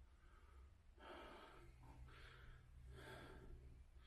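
Faint breathing close to the microphone: three breaths about a second apart, over a low steady hum.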